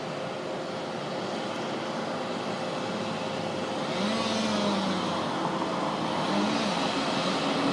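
Street traffic with a city bus approaching, its engine noise growing steadily louder, and a few rises and falls in engine pitch after about four seconds.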